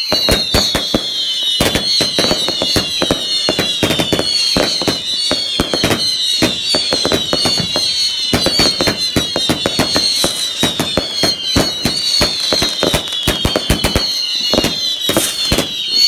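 Fireworks going off in rapid succession: a continuous stream of sharp bangs and crackles, overlaid by whistles that fall in pitch about once a second.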